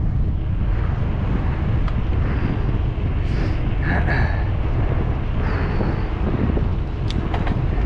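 Wind buffeting the microphone of a moving bicycle, a loud, steady rumble, with a few faint short high chirps or squeaks in the middle and some clicks near the end.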